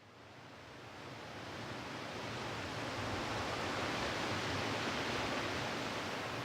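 Surf of the Cantabrian Sea washing onto a beach: a steady wash of noise that fades in over the first couple of seconds.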